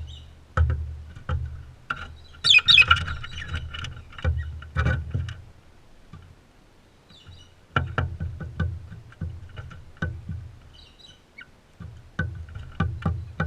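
Irregular knocks and taps, each with a deep thud, of birds pecking and clambering at a feeder right by the microphone, in clusters with a lull in the middle. A brief bright chattering call comes a few seconds in, and faint chirps come later.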